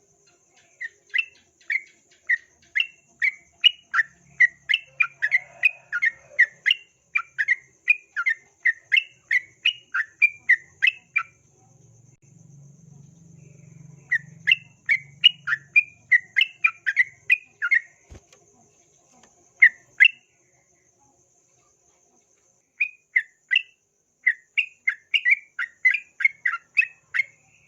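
Yellow-vented bulbul singing a fast run of sharp, bubbly notes, about three a second, in three bouts with short pauses between them. A faint steady insect trill runs underneath.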